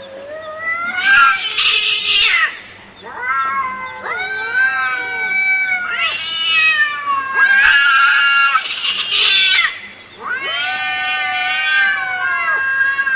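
A domestic cat yowling in long, drawn-out wavering howls, about five in a row with short breaks between them.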